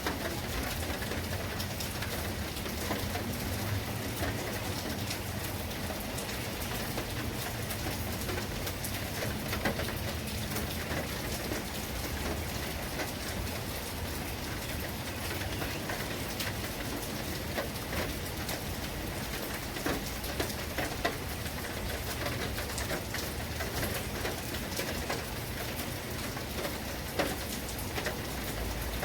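Steady rain falling, with many separate drops striking a surface as close, irregular ticks.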